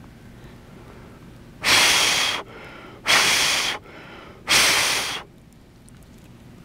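A person blowing hard on a campfire to fan it into flame: three long, forceful puffs of breath, about a second and a half apart.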